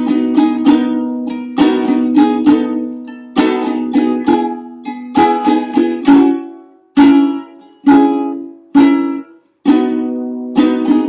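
Ukulele strummed in the instrumental introduction to a song: a rhythmic strumming pattern, then four single chords struck about a second apart and left to ring out, then steady strumming again near the end.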